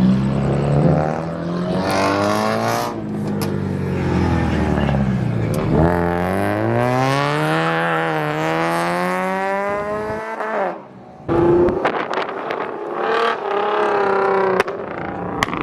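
Car engines revving. One engine climbs steadily in pitch for about four seconds, then the sound breaks off sharply about ten seconds in before engine noise resumes.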